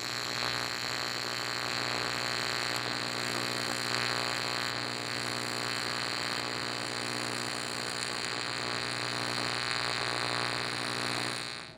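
AC TIG welding arc on dirty, diesel-soaked aluminum, buzzing steadily with a hiss for about eleven seconds and cutting off suddenly near the end as the torch stops.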